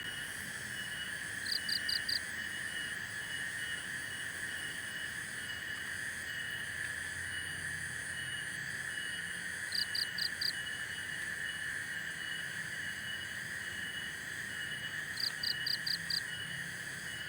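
A steady chorus of crickets or similar insects with a regular pulsing trill. Three times a louder call of four to five quick high notes breaks in: about a second and a half in, near the middle, and near the end.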